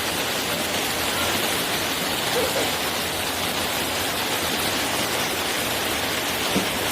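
Mountain stream water flowing steadily, an even hiss of running water with no break.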